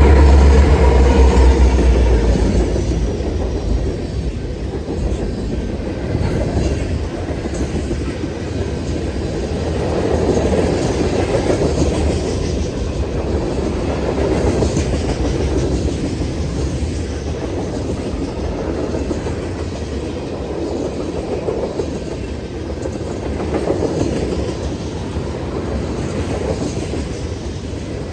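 Freight train cars rolling past with the clickety-clack of wheels over the rail joints. A deep rumble at the start fades within the first few seconds, and the rolling then goes on steadily, swelling and easing a little.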